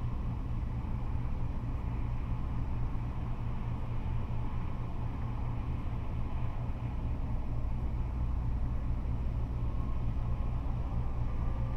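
Freeway traffic of cars and trucks: a steady low rumble with no single vehicle standing out.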